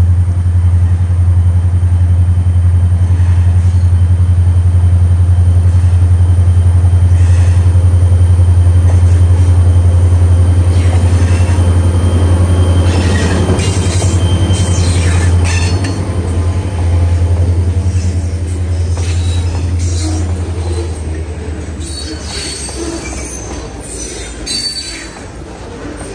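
Diesel freight train passing close by. The GP40-3 locomotive's engine drones loud and steady, then fades from about 16 seconds in as the hopper cars roll past with intermittent steel wheel squeal and screeching.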